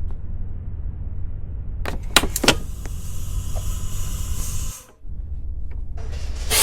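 Scania K230UB diesel bus running with a steady low rumble. A few sharp clicks come about two seconds in, followed by a hiss lasting about two seconds.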